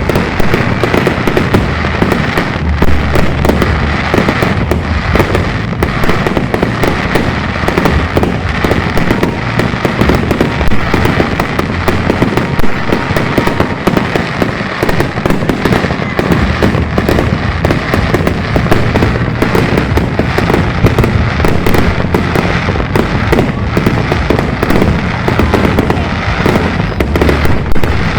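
Aerial fireworks in a continuous barrage: many shell bursts and crackles overlapping with no pause, over a low rumble of booms.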